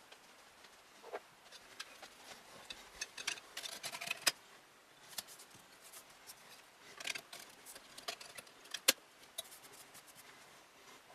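Hands working inside a PC case: irregular small clicks, taps and rattles of plastic and metal parts being handled, with clusters about three seconds in and seven seconds in and one sharp click near the end.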